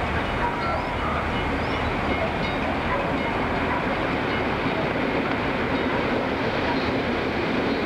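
An approaching diesel-hauled train rumbles steadily, with the engine and the wheels on the rails both in the sound. The engine note grows stronger near the end as it closes in.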